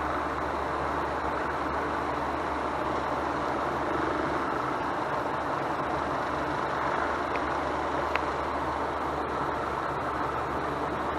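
A steady background hum with no change in it, and a single light tick about eight seconds in.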